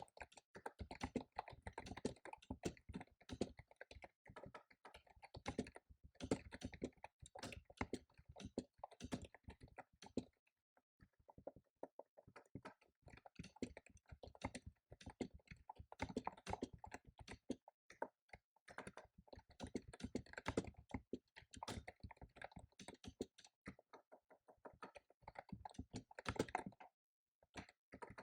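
Typing on a computer keyboard: fast runs of key clicks with short pauses between bursts, and a longer pause about ten seconds in.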